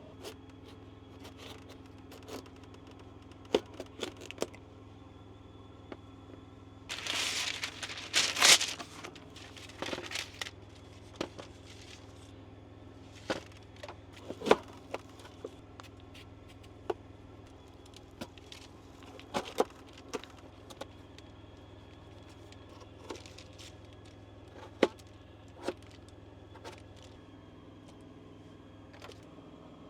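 Cooking prep in a small space: scattered clicks, clinks and knocks of utensils and containers being handled, with a loud rustle of plastic packaging about seven to nine seconds in, over a steady low hum.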